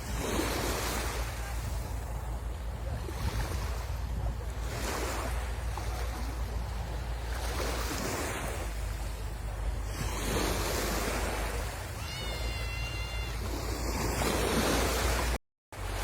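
Sea waves breaking and washing up the shore, swelling and ebbing every two to three seconds, with wind rumbling on the microphone. About twelve seconds in, a brief high-pitched tone sounds faintly over the surf, and near the end the sound cuts out for a moment.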